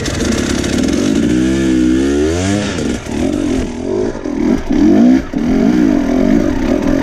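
Enduro motorcycle engine, just started, being revved up and down unevenly, its pitch climbing once and then wavering with the throttle.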